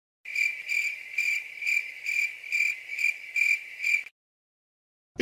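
Stock cricket-chirping sound effect, the comedy cue for an awkward silence: a high chirp pulsing evenly about two and a half times a second for roughly four seconds, then cutting off cleanly.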